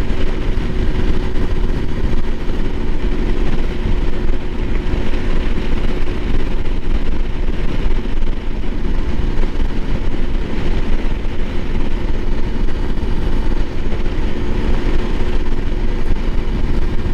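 Honda CRF300L Rally's single-cylinder engine running steadily while riding, mixed with strong wind rushing over the microphone.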